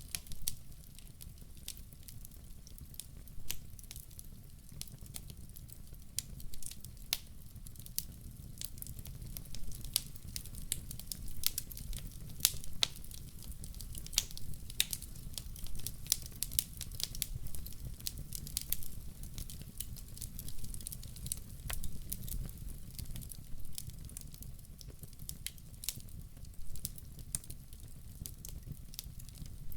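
Wood fire crackling, with many irregular sharp snaps and pops over a steady low rumble.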